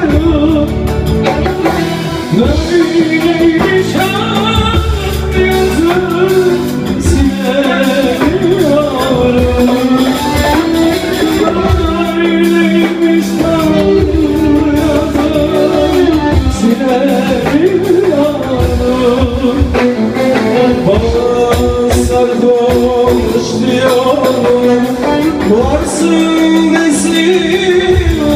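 A man singing a Turkish song with instrumental backing, loud and continuous.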